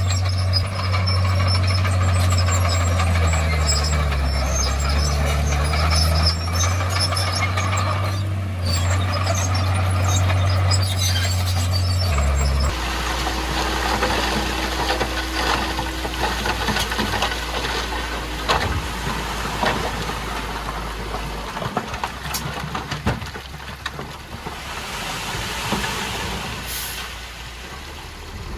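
Komatsu D51PX bulldozer's diesel engine running under load, with heavy low-pitched engine tones. About twelve seconds in, the sound changes abruptly to a quieter, steadier engine drone.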